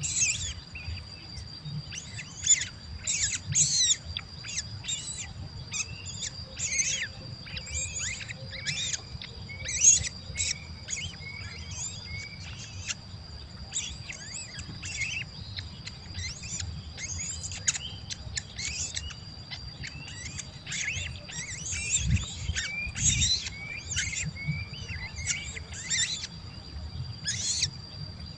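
Nestling birds chirping and begging: a dense run of many short, high-pitched chirps, with a steady thin high whine underneath throughout.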